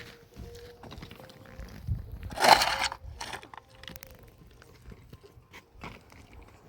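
Scattered small crunches and clicks, with one louder gritty scrape about two and a half seconds in.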